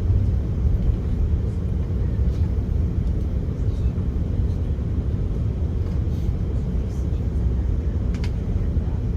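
Steady low rumble of an Airbus A330-300 heard from inside the passenger cabin, with a faint click about eight seconds in.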